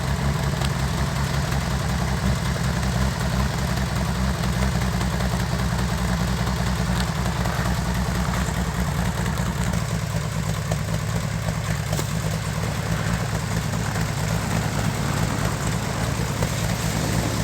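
1961 narrow-gauge Bombardier snow vehicle's engine idling steadily just after a hard cold start, left running to warm up and get the oil through. The idle drops slightly lower about ten seconds in.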